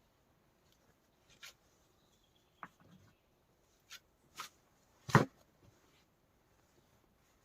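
Shovel digging into earth: about six separate scrapes and thuds, the loudest a little after five seconds in.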